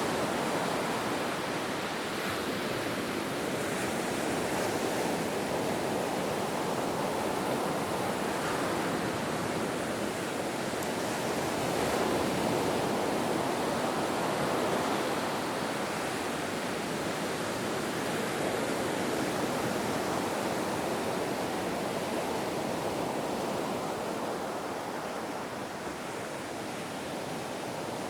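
Ocean surf: a continuous wash of breaking waves, slowly swelling and easing, a little louder about halfway through and softer near the end.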